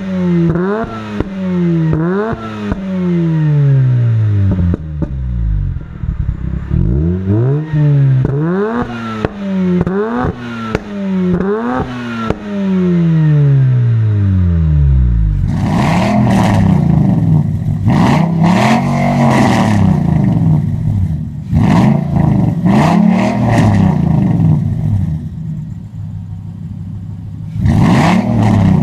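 Mazda RX8's two-rotor rotary engine through an HKS Hi-Power catback exhaust, revved over and over in free-revving blips, its pitch rising and falling each time. About halfway through, the blips get longer and sound rougher and rasping.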